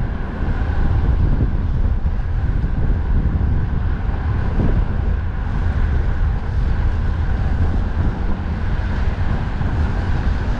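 Wind rushing over the microphone of a moving bicycle rider, a loud, steady low rumble.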